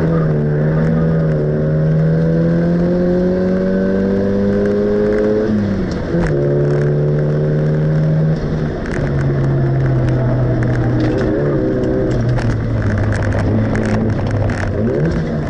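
Classic Mini's engine heard from inside the cabin while lapping a circuit. It pulls with the revs rising slowly, drops off sharply about six seconds in, then runs at steadier, lower revs that step down twice. A quick blip of revs comes near the end.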